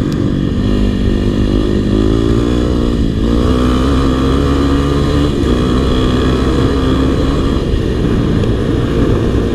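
Single-cylinder four-stroke dirt bike engine running under way, its pitch rising and falling with the throttle.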